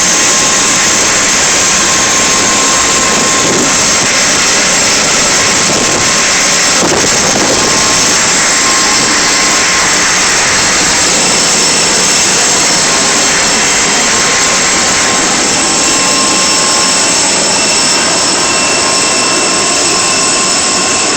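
Jet engines running at the airport: a loud, steady roar with a high whine held under it.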